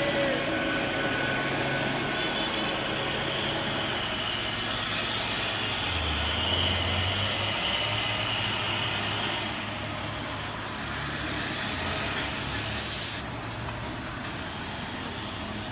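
Heavy diesel machinery running steadily, with a low engine note under a broad hiss that swells about eleven seconds in and drops back about two seconds later.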